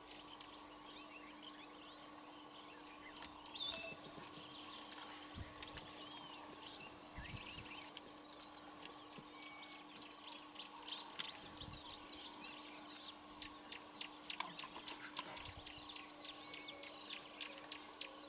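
Several birds calling, a busy mix of short chirps and whistles that grows denser in the second half, over a steady low hum.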